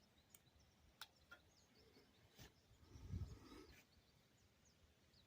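Near silence: faint background with a few soft clicks and a brief low thump about three seconds in.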